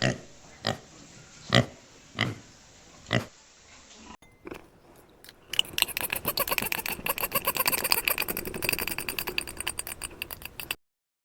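Animal calls in two clips. First come five short, sharp calls spaced under a second apart. Then a different animal gives a long, rapid, rattling run of squealing calls that stops suddenly near the end.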